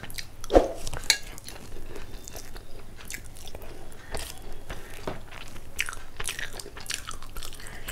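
Close-up eating sounds: a person chewing and biting mouthfuls of rice and curry, with irregular soft clicks and crunches.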